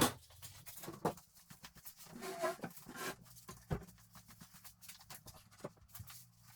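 Faint scattered clicks and light knocks, with the sharpest at the very start and a few more about a second, three seconds and near four seconds in, over a low steady hum.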